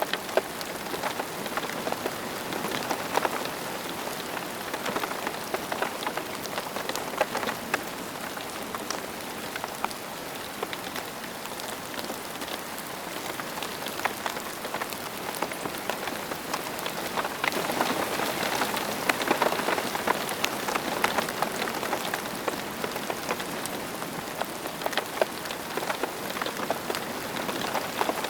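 Steady rain falling, with many separate drops tapping close by; it grows a little heavier for a few seconds past the middle.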